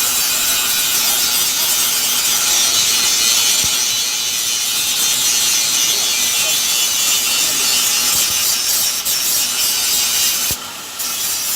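Steady, high-pitched abrasive hiss of a tool cutting or grinding material, without a stroke rhythm, dipping briefly about ten and a half seconds in.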